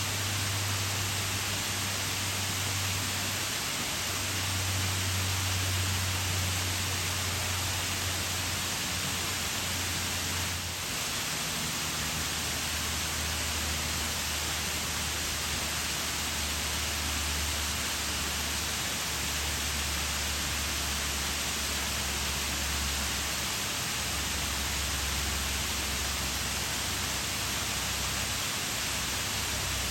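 Waterfall pouring steadily: a continuous rushing hiss of falling water with a deep rumble underneath.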